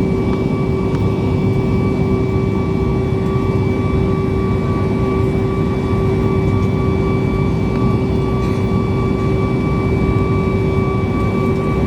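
Boeing 737 MAX 8's CFM LEAP-1B jet engines heard inside the cabin: a loud, steady rush with a constant whine held over it.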